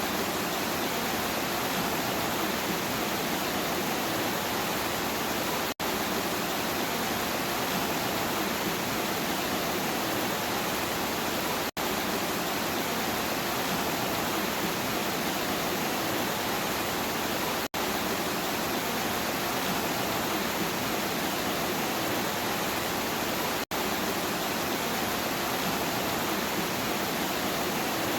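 Steady, even rain noise, with a brief dropout about every six seconds where the recording loops.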